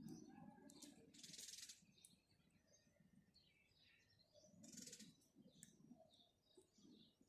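House sparrows chirping faintly, short scattered chirps, with two brief noisy rustling bursts, one about a second in and one near the five-second mark.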